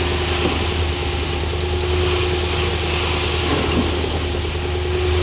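Tata truck's diesel engine running steadily: a low even rumble with a thin steady whine over it.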